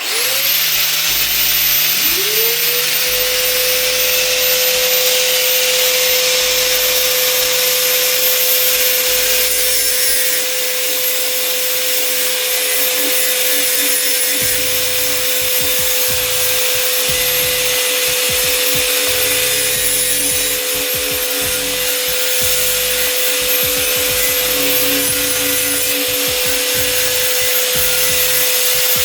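Handheld electric power tool starting up and grinding a cast-iron pot lid: the motor whine rises quickly and then holds steady over a harsh, continuous rasp of abrasive on metal, stripping the lid's surface before seasoning.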